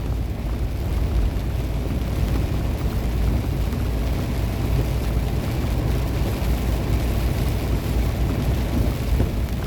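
Steady low rumble of a semi-truck's engine and tyres on a wet highway, heard from inside the cab.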